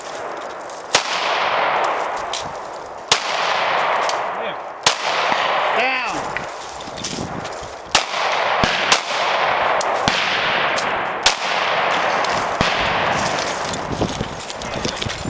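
About six shots from a Springfield Armory XD(M) pistol in .40 S&W, fired singly at uneven gaps of one to three seconds. A rushing noise swells and fades after each shot, and a short ringing tone sounds about midway.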